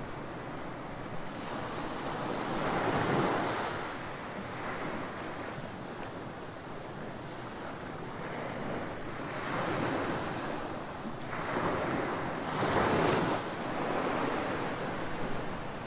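Ocean waves breaking and washing up a beach, in repeated swells that peak about 3 s, 10 s and 13 s in.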